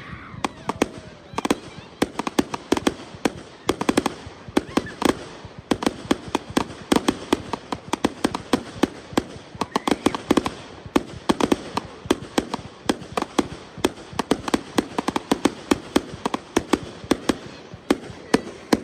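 Consumer fireworks bursting in a continuous, rapid barrage of sharp bangs and cracks, several a second.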